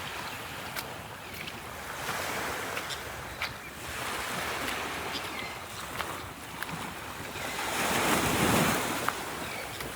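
Gulf surf washing up on the beach under a strong wind, with wind buffeting the microphone; the rush swells to its loudest with a wave about eight seconds in.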